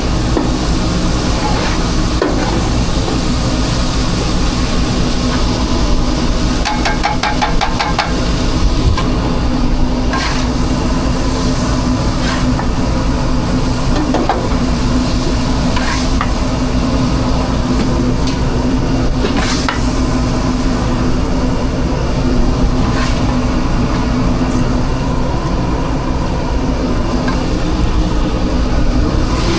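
Food truck kitchen noise: a steady machine hum under scattered knocks and clatter of kitchen work, with a quick run of rattling clicks a few seconds in.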